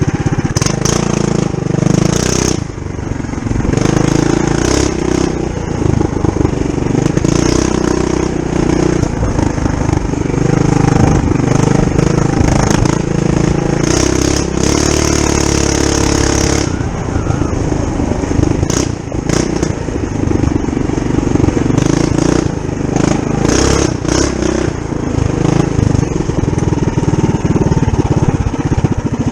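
Tillotson 212cc single-cylinder engine, stage one with the governor removed, running a Trail Master MB200-2 mini bike under load on a trail ride. The engine note rises and falls with the throttle, with scattered knocks and rattles.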